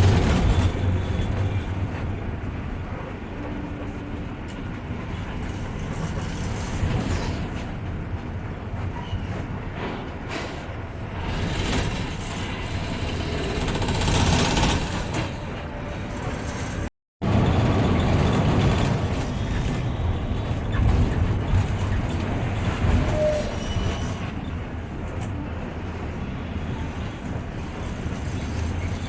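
Intercity bus engine running with road and tyre noise, heard from inside the driver's cabin, with a louder swell of noise just before the middle. The sound cuts out for a moment just past the middle, then resumes.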